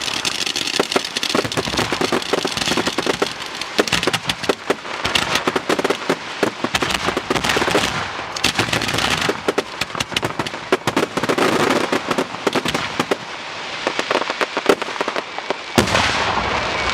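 Fireworks display going off: dense, rapid crackling and popping with many overlapping bangs, and a louder bang near the end.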